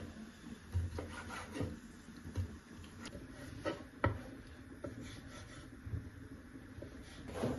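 Objects being handled on a wooden surface: soft rubbing and scraping with scattered light knocks and taps, the sharpest about four seconds in.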